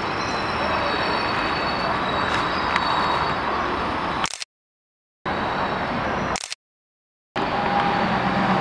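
Passenger train cars rolling slowly on the track: a steady rumble and hiss with faint high tones. The sound cuts out completely twice, for about a second each, around the middle.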